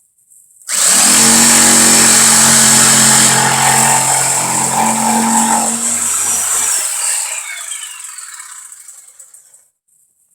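Electric power saw switched on about a second in, running loud and steady for about five seconds, then switched off and spinning down with a falling whine that fades out near the end.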